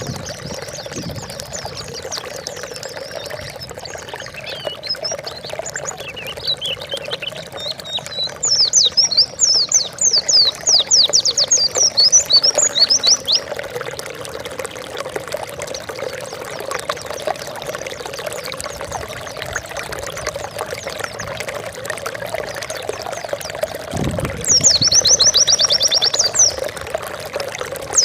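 White-eye (pleci) singing fast, high chirping trills, loudest in two long bursts about a third of the way in and near the end, over a steady trickling-water background.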